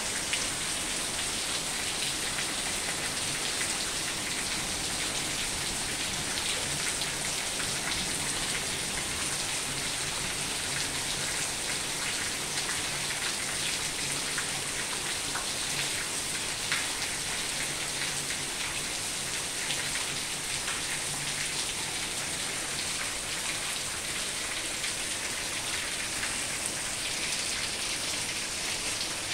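Heavy rain pouring steadily: a dense, even hiss of countless drops spattering on hard, wet surfaces.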